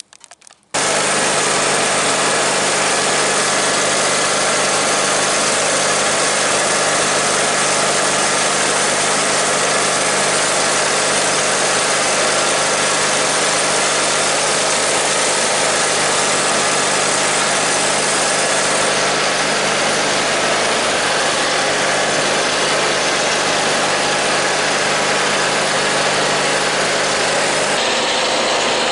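Small engine of a snow-clearing machine running steadily and loudly, cutting in abruptly about a second in.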